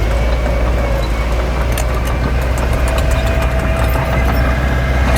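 Heavy earthmoving machine's diesel engine running steadily: a deep rumble with a steady whine above it and faint scattered ticks.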